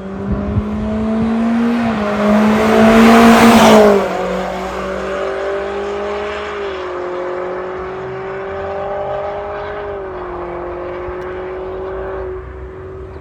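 Toyota Corolla Cross 1.8's engine heard through an aftermarket MS-R valved exhaust muffler, accelerating. The note climbs for about four seconds to its loudest, drops off suddenly, then settles into a steady drone with two small dips in pitch.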